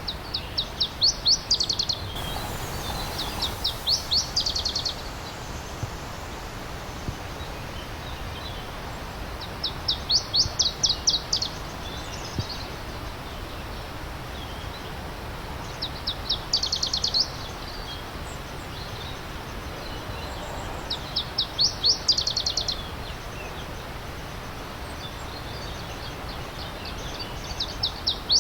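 A songbird singing short bursts of rapid, evenly spaced high notes, repeated every few seconds, over the steady rush of a stream.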